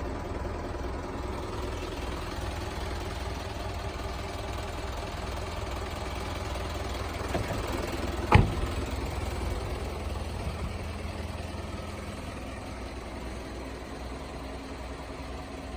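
Isuzu Elf truck engine idling steadily. A single sharp knock sounds about halfway through, with a fainter click just before it.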